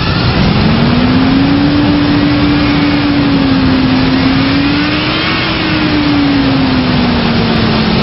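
The truck's 5.3-litre V8 engine running, its speed raised about half a second in, wavering a little, then easing back down near the end.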